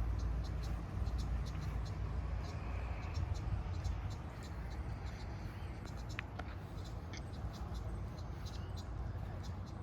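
Insects chirping outdoors: a steady series of short, high chirps, several a second, over a constant low rumble, most likely wind on the microphone.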